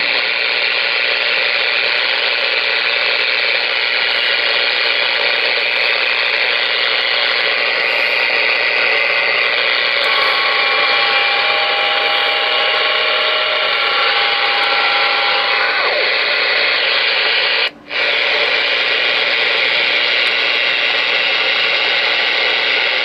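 Loud, steady static from a Galaxy DX-98VHP ten-meter radio's speaker as it receives on the air. A few steady whistling tones from other signals come and go in the middle, and the hiss cuts out for a moment near the end. It is heavy band noise, which reads almost S9 on the radio's meter.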